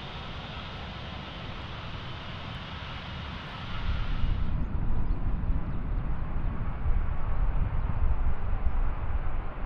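Steady, distant jet airliner engine noise, a hiss with a low rumble beneath. About four seconds in it gives way abruptly to low, gusty wind buffeting the microphone.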